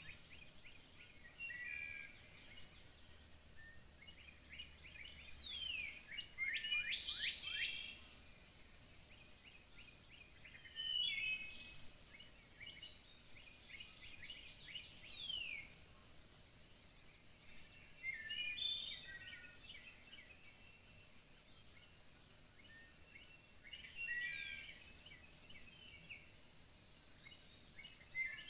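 Songbirds singing in a forest: short chirping and trilling phrases every few seconds, some with quick downward-sliding whistles, over a faint steady hiss and a thin high tone.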